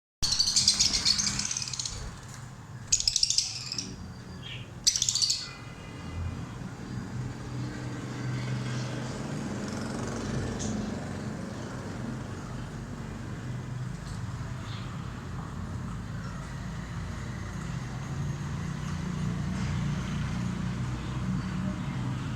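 A parrot giving three loud, shrill chirping calls in the first five seconds, each lasting about a second, over a steady low hum.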